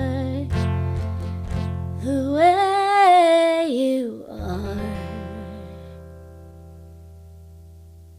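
Closing bars of a song with acoustic guitar: a few strums, a held sung note with a slight waver about two seconds in, then a final guitar chord ringing out and slowly fading away.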